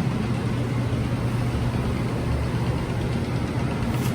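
Steady low mechanical hum, like a machine or engine running, under an even noisy wash.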